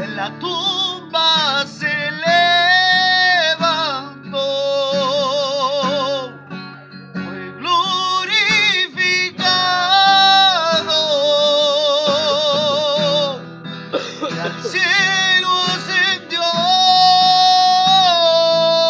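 A voice singing long, held notes with vibrato over guitar accompaniment, with short breaks between phrases.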